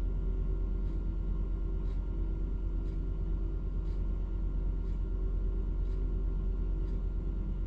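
Truck crane's engine running steadily with a low rumble while it lifts a load, with a faint tick about once a second.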